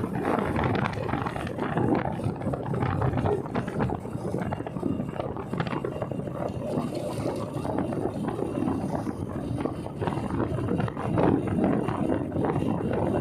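Wind buffeting the microphone on a moving motorcycle: a continuous rough rush with no distinct engine note.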